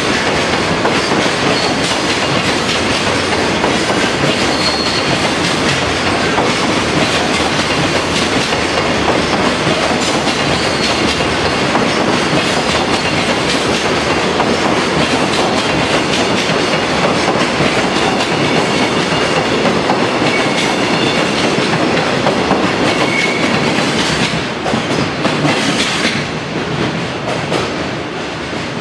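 Container freight train wagons rolling past on steel rails, their wheels clicking over the rail joints with a few brief high squeals. The sound is steady and loud, then fades over the last few seconds as the end of the train passes.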